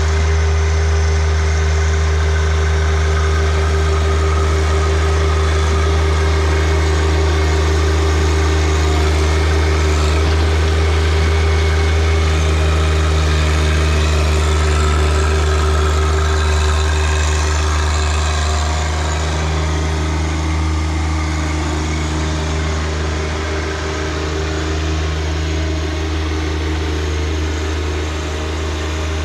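John Deere 1025R compact tractor's three-cylinder diesel engine running steadily, a little quieter in the last third.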